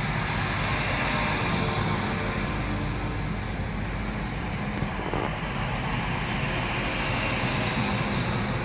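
TransPennine Express passenger train standing at the platform, its engines running with a steady hum.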